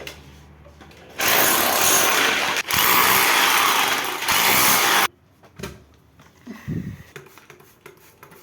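A power tool runs loudly for about four seconds, stopping briefly once partway through, then cuts off. A few light knocks follow.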